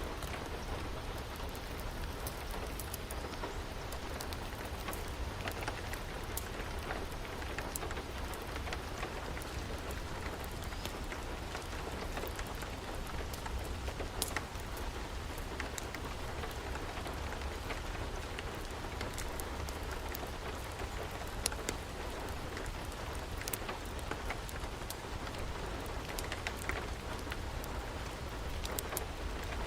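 Steady rain falling, with scattered sharp crackles and pops of a wood fire on top; one or two louder pops stand out about halfway through.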